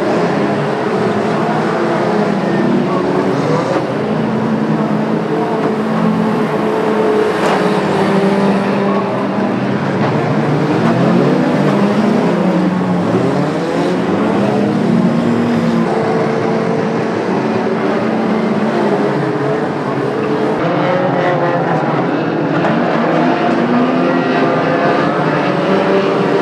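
Several racing cars' engines running together around an oval track, their pitches rising and falling as the cars accelerate, lift and pass. There is a single sharp knock about seven seconds in.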